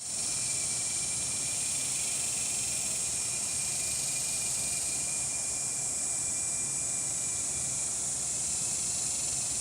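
Several cicadas calling at once: a steady, dense, high buzzing drone. Underneath runs a thinner, lower steady whine that fades out near the end.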